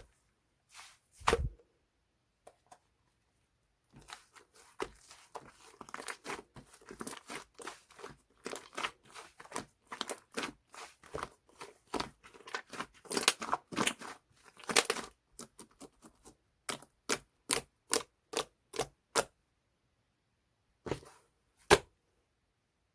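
Clay slime, made with angel clay, being squished and stretched by hand, giving quick sticky clicks and pops. They come thick and fast through the middle, with a couple of last pops near the end.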